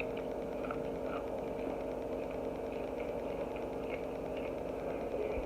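A steady electrical hum with several fixed tones, with a few faint, soft clicks of eating over it.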